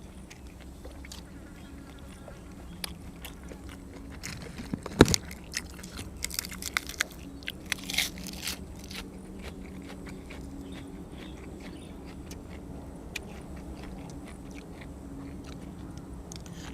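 Close-up chewing and biting on grilled cuttlefish and crisp raw vegetables, with crunchy bites. The crunches come thickest between about four and nine seconds in, the loudest a sharp crunch about five seconds in, and slow to quieter chewing later.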